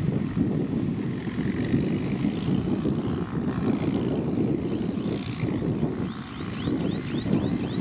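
Heavy road-construction machinery running with a steady, low engine rumble. Near the end, a quick series of high, short chirps sounds over it.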